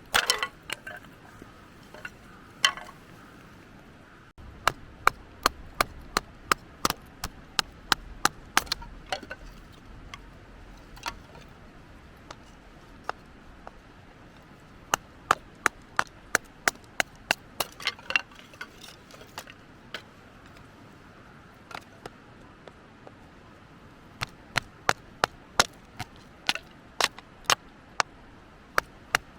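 Firewood being split by hand: runs of sharp wooden knocks, about two a second, with short pauses between the runs.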